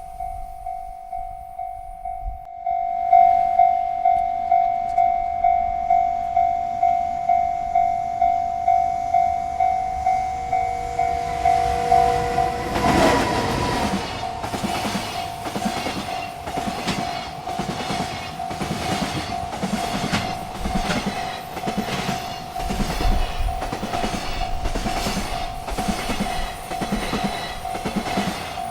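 Railroad crossing bell ringing steadily at about two strikes a second; about halfway in, a freight train arrives and rolls past with its wheels clattering over the rail joints while the bell keeps ringing.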